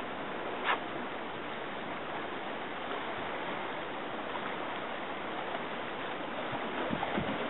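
Steady wash of waves and sea water, with two sharp clicks near the start.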